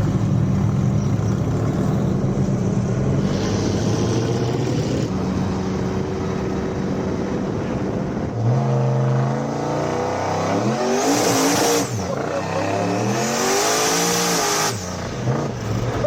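Turbocharged 6.0-litre V8 truck engine with a 92 mm turbo, idling steadily, then revving up and down several times from about eight seconds in. Two spells of high hiss and whistle come over the revs near the end.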